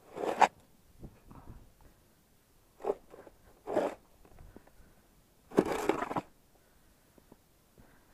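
Snow shovel digging into deep snow on steps: four separate crunching scoops, the last one longer.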